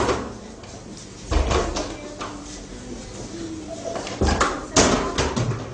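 Dull knocks and bumps, several over a few seconds, from a small child clambering up the front of a fridge.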